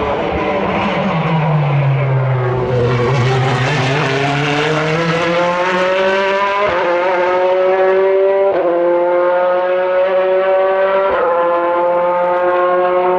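Chevrolet Corvette C8.R race car's V8 engine, high-pitched and not throaty. It slows for the first couple of seconds, then accelerates hard, with three upshifts about a second and a half to two and a half seconds apart, the pitch climbing again after each shift.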